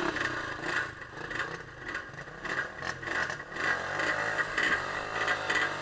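Vehicle engine running on an off-road trail ride, its low hum shifting slightly in pitch, with scattered knocks and rattles.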